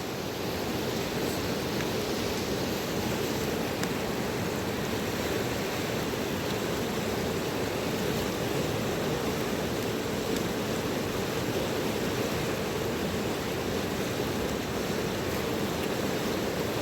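Fast-flowing river rushing steadily, an even noise with no pauses or changes.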